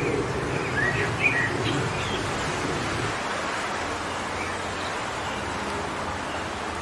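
Wind blowing through forest trees as a steady rush, with a few short bird chirps in the first two seconds. A low gusting rumble dies down about three seconds in.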